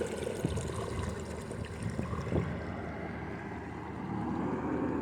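Shallow water lapping and trickling, with a few soft knocks. About four seconds in, the steady hum of a distant motorboat engine comes up.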